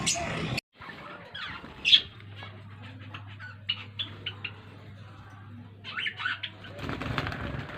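Pet lovebirds chirping and squawking in short, scattered calls, the loudest about two seconds in, with further clusters of calls later on.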